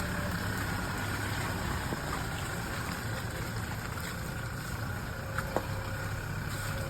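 Toyota Hilux pickup's diesel engine running steadily at low revs while the truck reverses, a low even hum with a faint steady whine above it.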